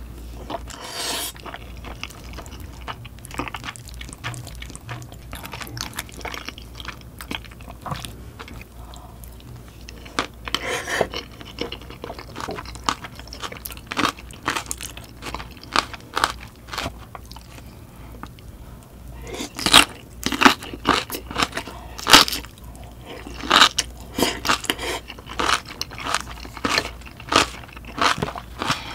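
Close-miked eating: a person chewing and biting food with wet mouth sounds and crisp crunches. The crunches come thick and loud from about twenty seconds in.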